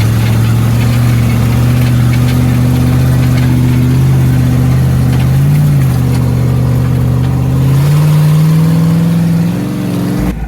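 Mini S10 monster truck's engine running loud and steady as it is driven, its pitch rising about eight seconds in. The sound cuts off abruptly near the end.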